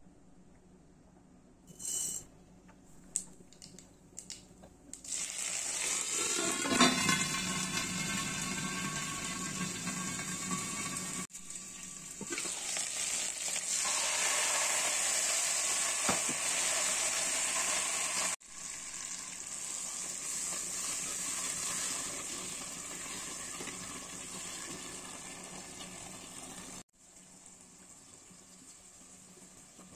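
Hot oil in a nonstick pot sizzling as chopped tomatoes go in. The sizzle sets in about five seconds in, after a few light clicks, cuts off abruptly two or three times, and is much quieter near the end.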